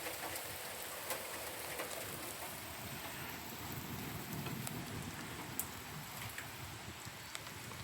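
Steady rain falling in a thunderstorm, with scattered sharp ticks of drops striking.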